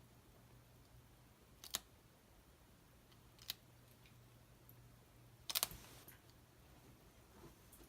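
A few faint, sharp clicks and taps a couple of seconds apart, with a cluster of them about two thirds of the way through, from hands handling sticker sheets and a paper planner, over a low steady hum.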